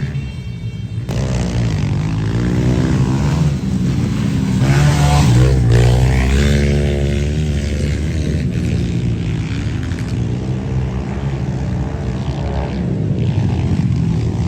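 Engines running, with a steady low drone and engine pitch that rises and falls several times as they rev.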